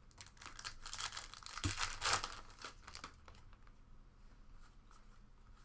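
Trading-card pack wrapper being torn open and crinkled, a dense crackling for about three seconds that is loudest around two seconds in, then a few fainter crinkles.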